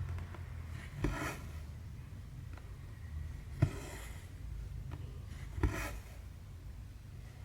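Needle and thread worked through cross-stitch fabric: three times a sharp tick as the needle pierces the fabric, followed by a short rasping swish as the thread is drawn through, about two seconds apart, over a low steady hum.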